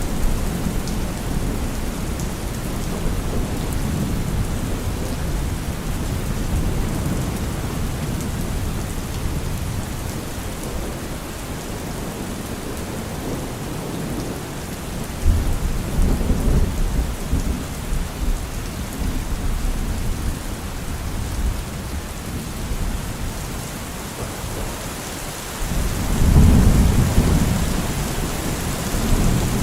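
Steady rain falling in a thunderstorm, with rolls of low thunder rumbling about halfway through and again, louder, near the end.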